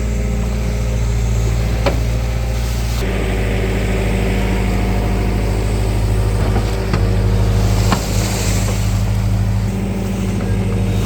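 A vehicle engine running steadily, its tone shifting about three seconds in, with a few sharp clicks.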